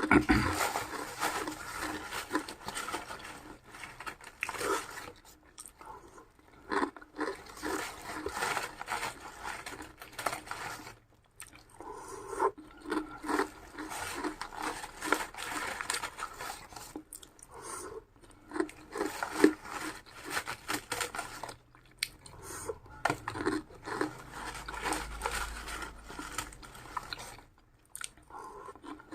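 A person biting and chewing crunchy food, in irregular bursts of crunching broken by short pauses.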